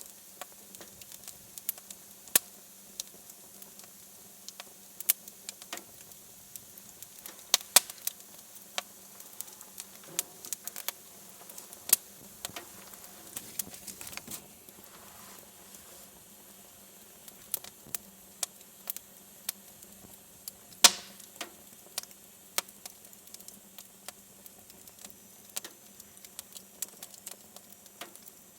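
Wood fire crackling in a fireplace, with irregular sharp pops and snaps. One pop about three-quarters of the way through is louder than the rest.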